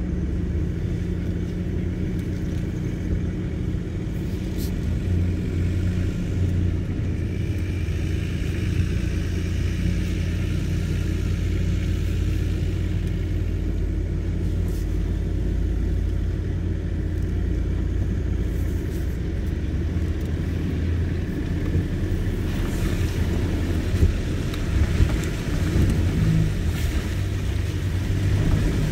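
Nissan Y62 Patrol's V8 engine running steadily at low revs as the four-wheel drive crawls along a rough dirt track. A few sharp knocks come a little over three-quarters of the way through.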